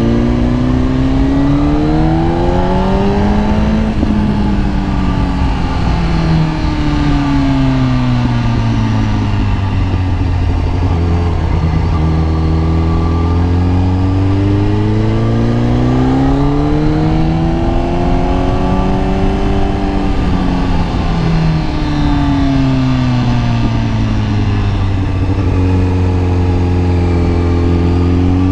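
Kawasaki ZX-10R sportbike's inline-four engine running under riding load, its pitch rising over several seconds and then falling, twice, with steady stretches between.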